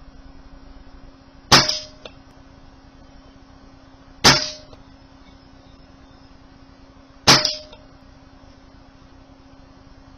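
Brocock Concept air rifle firing three shots about three seconds apart, each a sharp crack with a short metallic ring.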